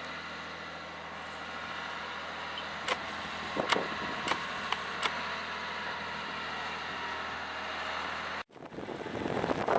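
Heavy vehicle engine running steadily, with a few sharp clicks about three to five seconds in. Near the end the sound cuts out abruptly, then comes back as a louder, rougher rushing noise.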